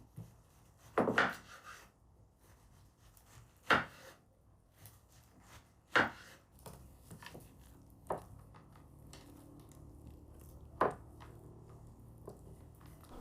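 Knife striking a wooden cutting board: a handful of sharp, separate knocks a couple of seconds apart, with a quick double knock about a second in.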